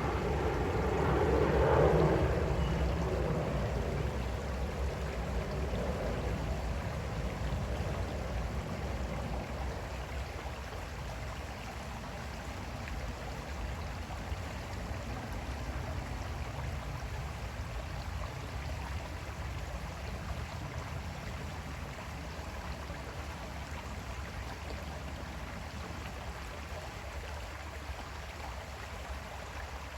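Creek water flowing steadily. A low drone swells about two seconds in and fades away over the next few seconds.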